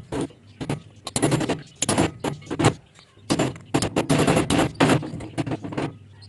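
Irregular bursts of metallic clattering and scraping from hand work on a water pump, about a dozen in a few seconds, over a steady low hum.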